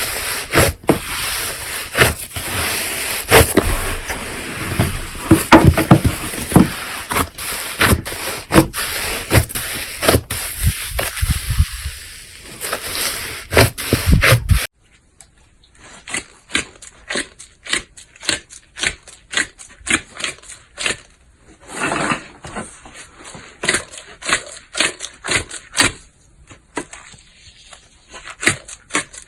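Slime being kneaded and squeezed by hand, giving rapid sticky clicks and pops of trapped air. About halfway through the sound changes abruptly to sparser, crisper pops over a much quieter background.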